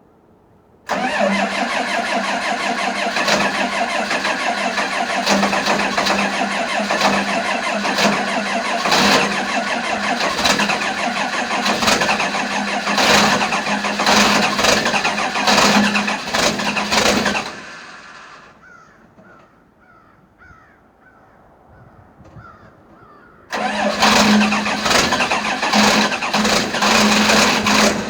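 Cold start of a logging machine's diesel engine in frosty weather. The engine comes in suddenly about a second in and runs loud and steady, drops away around eighteen seconds, then starts up loud again about twenty-three seconds in.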